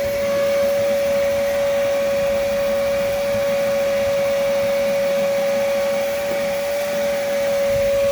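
Vacuum cleaner motor running steadily, a constant whine over a rush of air.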